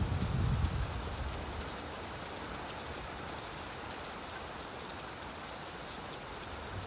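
Steady rain falling, an even hiss of drops, with a low rumble fading out during the first second.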